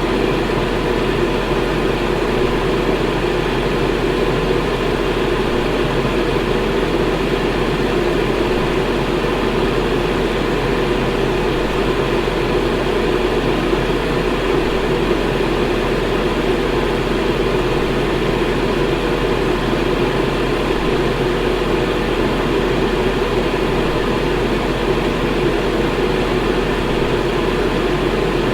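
Electric fan running steadily: an even, unchanging whoosh of moving air, strongest in the low middle, with a faint steady low hum.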